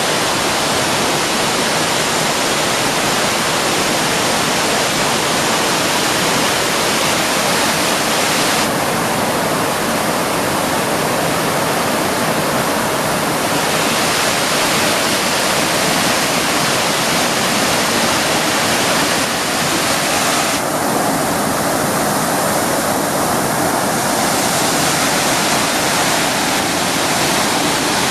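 A waterfall's loud, steady rush of falling water.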